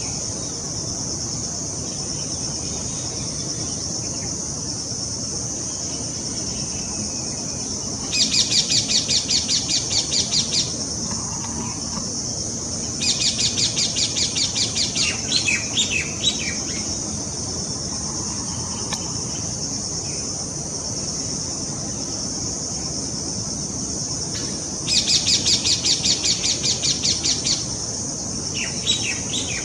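Parrot chick begging: three bouts, each two to three seconds long, of rapid repeated high calls at about five a second. Between them a steady high hiss carries on.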